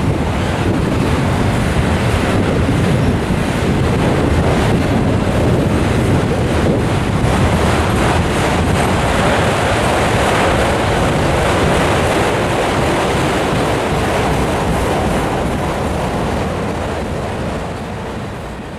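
Freight train of autorack cars rolling past close by: steady noise of steel wheels on the rails, getting quieter near the end.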